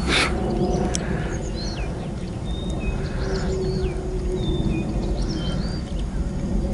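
Small birds chirping and whistling in short rising and falling notes over a steady low rumble. A brief loud rush of noise comes right at the start.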